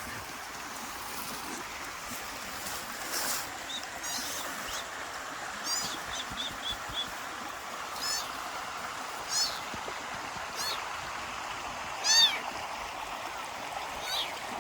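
Kittens mewing, high-pitched and repeated, about seven short calls with the loudest near the end, over a steady rushing background noise.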